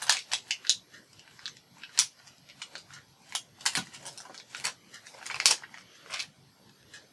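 Paper and small self-adhesive Velcro dots being handled: scattered short clicks and crinkly ticks, with a denser crinkle about five and a half seconds in.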